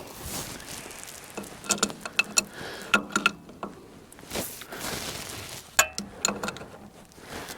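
A steel wrench clinking and tapping against the metal nuts and fittings of a wood splitter's hydraulic line, in irregular clusters of sharp clicks.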